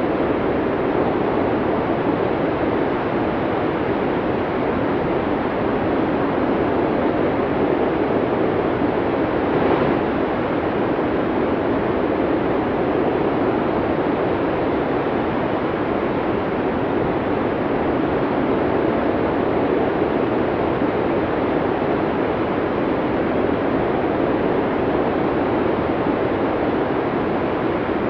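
Strong snowstorm wind blowing steadily, with a brief swell about ten seconds in.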